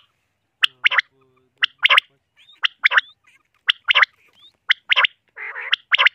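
Common quail calling: short sharp notes in quick pairs and triplets, repeated about once a second. A harsher rasping call joins near the end.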